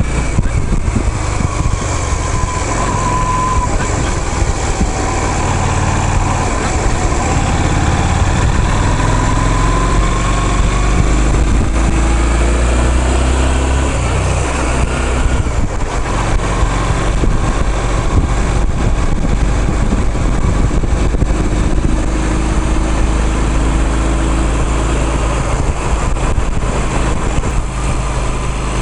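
A motor vehicle's engine running on the move, its pitch slowly rising and falling with speed over a steady low road rumble.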